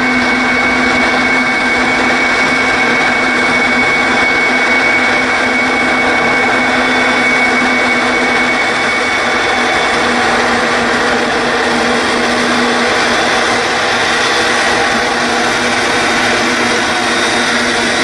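Jet airliner engines running steadily and loudly, a broad rush of noise with a high whine over it.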